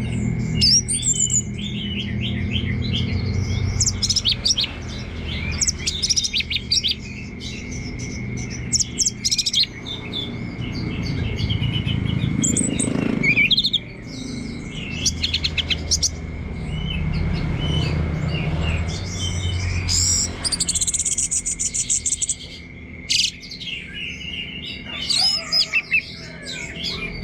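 Orange-headed thrush (anis merah) singing a long, rambling, continuous song of quick varied chirps and phrases, the relaxed 'teler' style, over a steady low hum.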